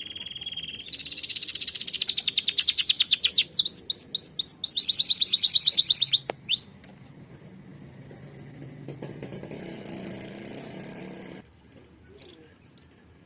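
Domestic canary singing a long phrase: a steady high trill, then a faster trill that grows louder, then a run of quick down-sweeping notes. The song stops about seven seconds in, leaving a fainter background hiss.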